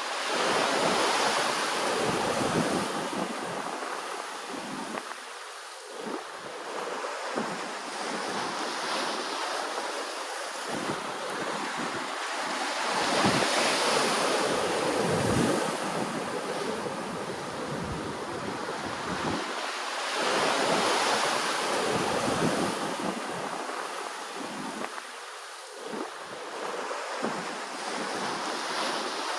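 Ocean waves washing on the shore, a continuous surf wash that swells and fades every several seconds.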